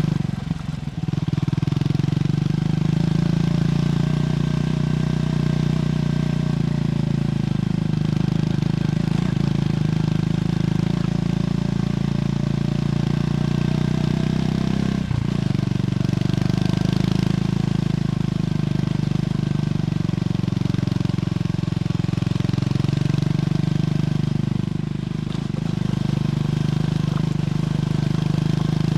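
Triumph Scrambler 400X's single-cylinder engine running through its stock exhaust while riding, the engine note rising and falling gently with throttle, with brief breaks shortly after the start and about fifteen seconds in.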